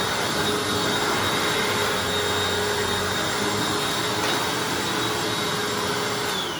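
Hoover Anniversary upright vacuum running steadily on a rug with a constant motor whine. Near the end it is switched off and the whine falls in pitch as the motor spins down.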